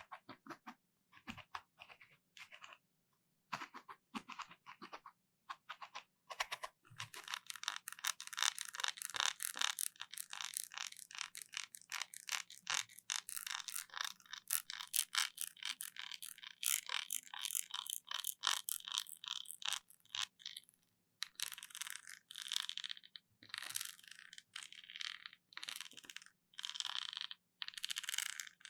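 Close-miked ASMR trigger sounds: rapid crisp clicking and scratching. Sparse clicks at first, then a dense fast run of clicks from about a quarter of the way in to about two-thirds, then separate short bursts of scratching to the end.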